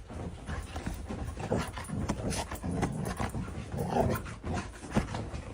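A dog making faint low vocal sounds, among scattered small clicks and knocks.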